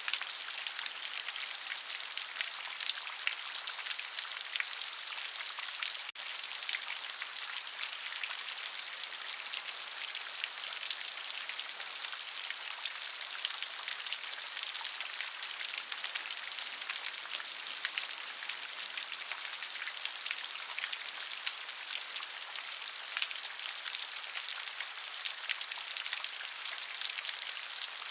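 Steady rain falling, a dense hiss of many small drop patters on a surface.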